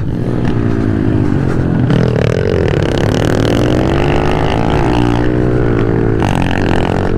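Pit bike engine running hard on track, its pitch rising and falling with throttle and gear changes, dropping about six seconds in.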